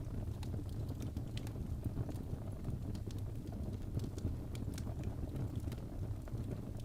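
Wood fire crackling: irregular sharp pops and snaps, several a second, over a steady low rumble of flames.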